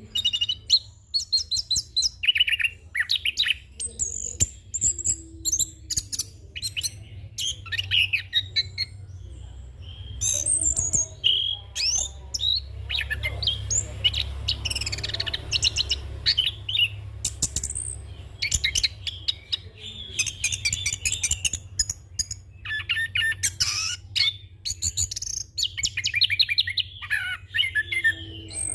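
Chestnut-capped thrush (anis kembang) singing a long, fast, varied song of quick chirps, trills and whistled phrases with only brief pauses, over a low steady hum.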